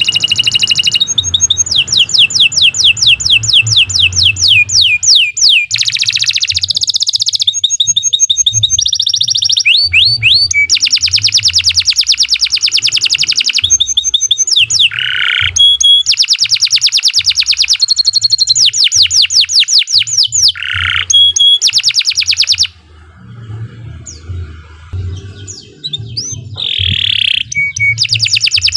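Domestic canary singing a long, continuous song of rapid trills and rolling repeated notes. About three-quarters of the way through the song pauses for a few seconds to a few scattered calls, then resumes.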